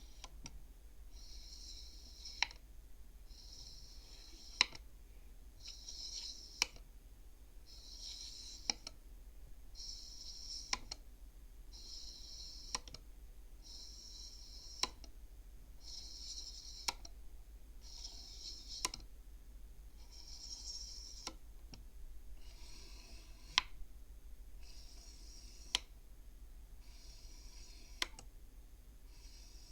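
Wooden beads of a bead-abacus counting frame pushed along their rod one at a time. Each move is a short sliding sound ending in a sharp click as the bead knocks against the others, about every two seconds.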